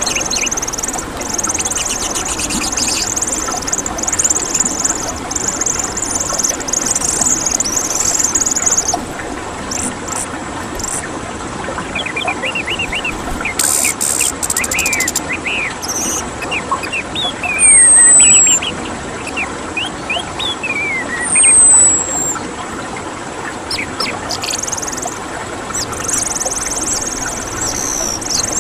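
Orange-headed thrush (anis merah) song: a dense high chattering run, then short chirping notes and two loud, high, falling whistles in the middle, with the high chatter returning near the end.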